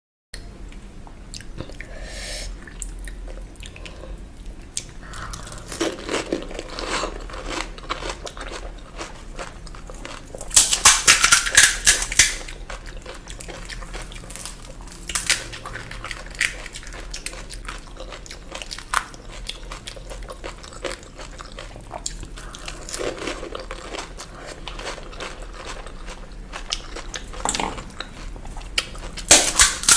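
Close-up eating of panipuri: crisp hollow puris crunching as they are bitten, then chewed. There are bursts of loud crackling about a third of the way in, briefly halfway, and again at the very end.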